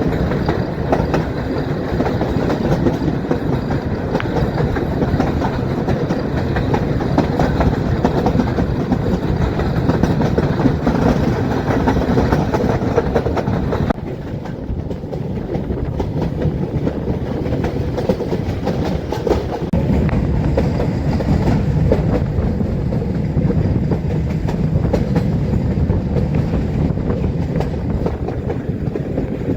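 Metre-gauge passenger train running, heard from on board: a steady rumble of the coaches with the wheels clickety-clacking over the rail joints. About halfway through the sound drops suddenly and loses much of its hiss, then carries on.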